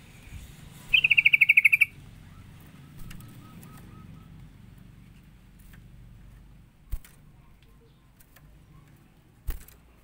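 A bird gives one loud, rapid trill of about a second, followed by a faint run of short, lower notes; two sharp clicks come near the end.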